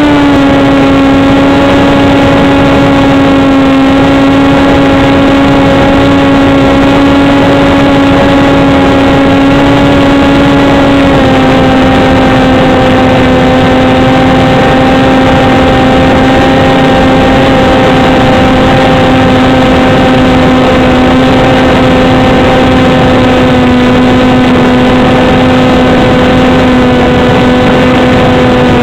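The motor and propeller of an RC foam flying wing, recorded close up by a camera mounted on the wing: a loud, steady drone with a dense rushing noise. The pitch steps down slightly about eleven seconds in and drops a little more near the end as the throttle eases.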